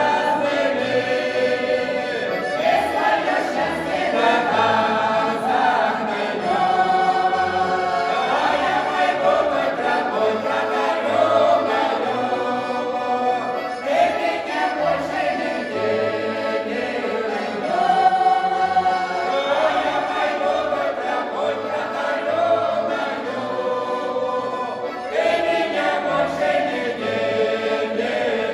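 A folk vocal ensemble singing a popular Russian song together in chorus, several voices holding and bending long sung notes.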